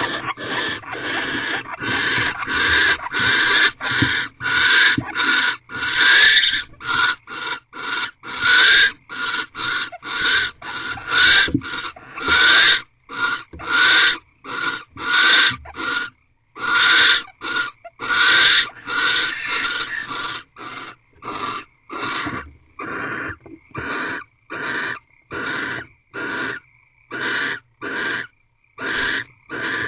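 Barn owls in a nest box giving a long run of harsh, hissing screech calls, about two a second, the calls a barn owl pair makes during courtship and mating.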